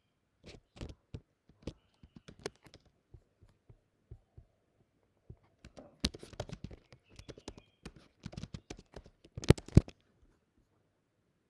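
Typing on a computer keyboard: scattered keystrokes, then quicker runs of keys from about halfway through, the loudest strokes near the end.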